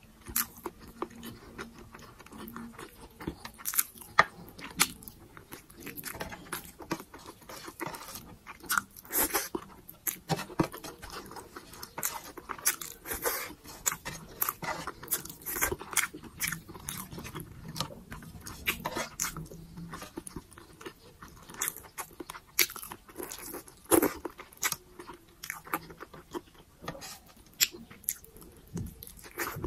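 Close-miked eating: chewing and smacking of rice, pork adobo and grilled pineapple, with many short, sharp wet mouth clicks.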